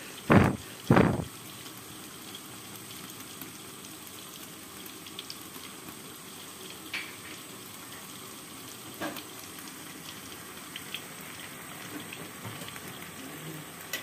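Tempe fu yung hai frying in shallow oil in a black wok: a steady sizzle with a few small pops. Two loud thumps come in the first second or so.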